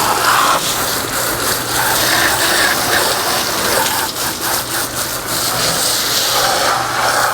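Water spraying steadily from a hose onto a boat while it is washed, with a constant low hum underneath.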